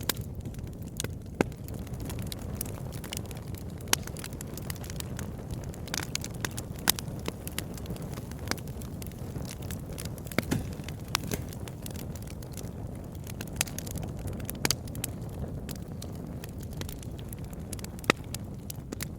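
Campfire burning, a steady low rumble of flames under irregular crackles and sharp pops of burning wood, a few louder snaps among them.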